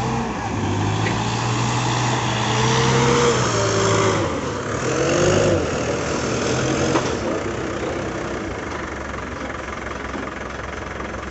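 Heavy diesel engine running steadily, louder through the first half and easing off after about seven seconds. A few short wavering higher tones sound over it about three to six seconds in.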